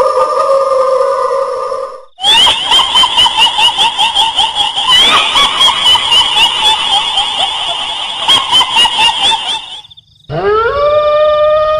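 Kuntilanak ghost sound effect: a woman's high, held wail falling slightly, then a long, shrill, rapidly pulsing cackling laugh, then after a brief silence another wail that rises into a held note.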